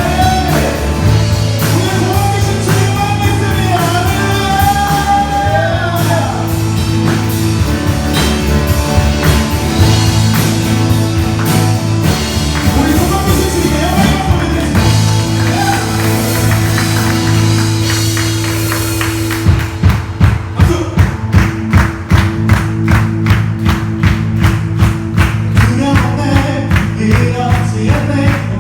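Live worship band with singers performing a praise song: voices over sustained keyboard and guitar chords with bass and drums. About two-thirds of the way through, the band shifts into a drum-driven section with strong, even beats about twice a second.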